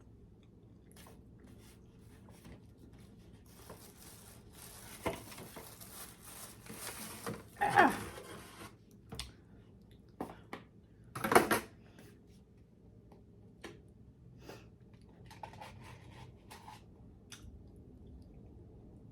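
Mealtime handling sounds: a few seconds of rustling from about four seconds in, with two louder tableware clatters near eight and eleven seconds, and small clicks of eating in between.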